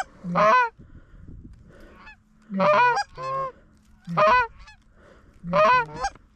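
Loud goose honks, about six short two-note calls at uneven spacing, some in quick pairs, with fainter honking between them.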